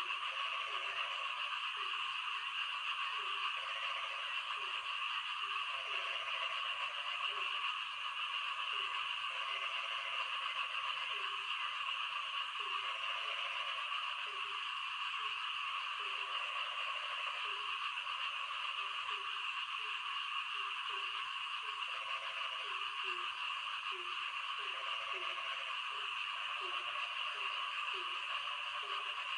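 Frogs calling in the rain: short low croaks repeating about one to two times a second, some stretched into longer, higher calls, over a steady high hiss.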